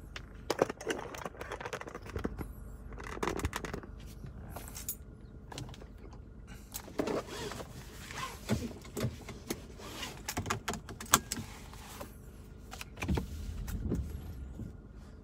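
Irregular clicks, knocks and rustles of things being handled inside a car, over a steady low rumble.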